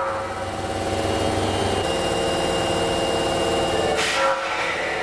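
Osaka Metro New 20 series subway train sounding its warning horn: steady stacked tones over the train's running noise, with a short loud blast about four seconds in.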